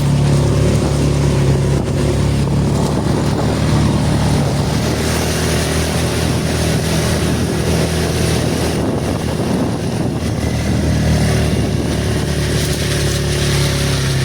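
ATV engine running steadily, a constant low hum that eases slightly through the middle and picks up again near the end.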